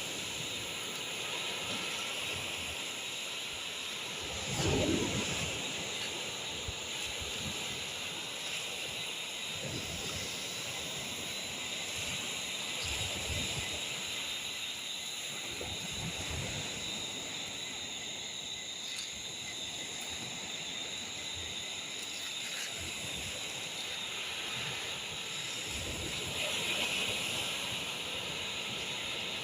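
Steady high-pitched chorus of night insects, with occasional low thuds on the microphone.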